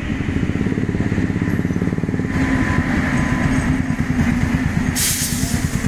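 Freight train running past, a steady low rumble with a rapid pulsing beat; about five seconds in a loud hiss joins it.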